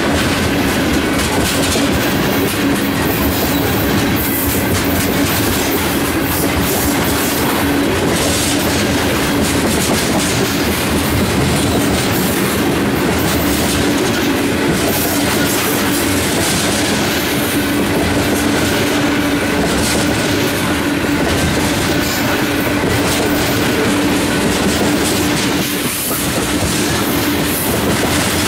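Freight train tank cars rolling past close by: a steady loud rumble of steel wheels on rail with clickety-clack over the rail joints, and a steady low tone under it.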